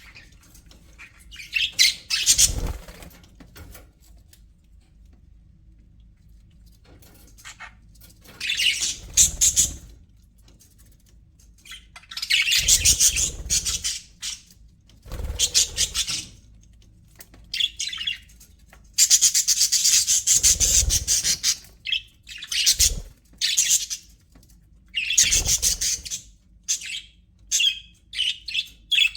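Budgerigars chirping and chattering in bursts of a second or two, with short quiet gaps between them. The longest and loudest burst comes about two-thirds of the way through.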